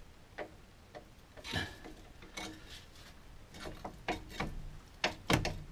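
Irregular metallic clicks and knocks of a tool levering against a car's front brake caliper and pads to push the caliper piston back in, with one short ringing clink about a second and a half in and louder knocks near the end.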